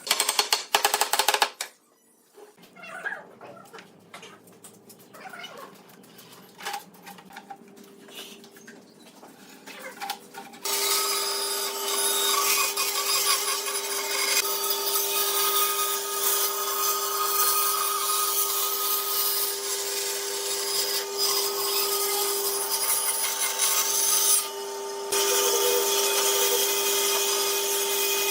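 Scattered knocks and scraping of wood being handled, then about ten seconds in a power tool starts and runs steadily on wood, holding a steady pitch, with a brief drop shortly before the end.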